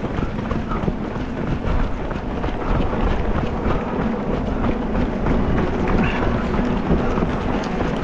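A marathon runner's footsteps on the road, a quick run of ticks, with wind buffeting the microphone.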